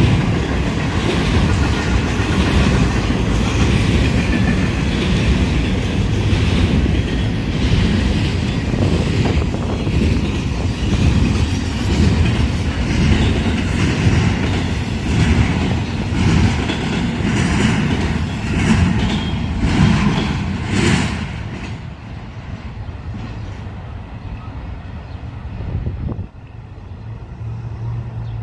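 Freight train rolling past, its cars' wheels rumbling and clacking over the rails; about 21 seconds in the noise falls away as the train passes, leaving a quieter rumble with a low steady hum near the end.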